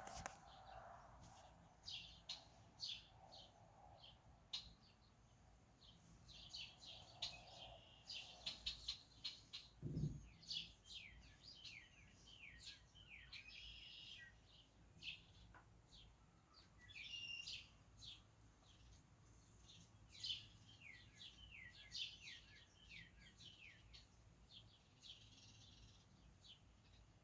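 Faint songbirds chirping and calling, with quick runs of short down-slurred high notes. A brief low thump about ten seconds in.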